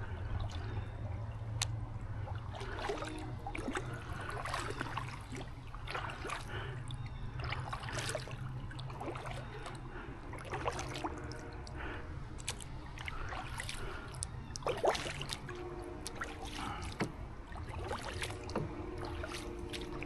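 Water trickling and splashing around a small solo canoe as it is paddled, with scattered light knocks throughout.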